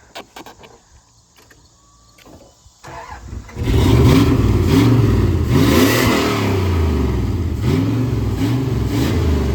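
Turbocharged Dodge pickup engine coming in loud about three and a half seconds in, then revving up and down repeatedly.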